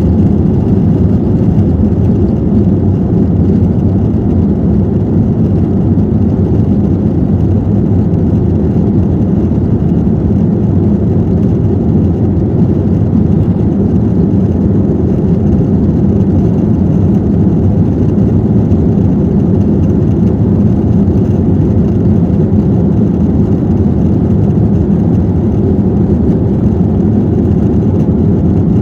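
Steady low drone of a jet airliner's engines and rushing air, heard from inside the passenger cabin.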